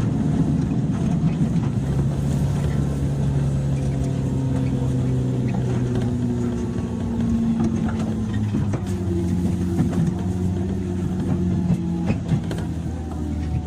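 Running sound inside a JR 103-series electric train's motor car: a steady rumble with the hum of the traction motors and gears, its pitch shifting, and sharp clicks from the wheels passing over rail joints, more of them in the second half.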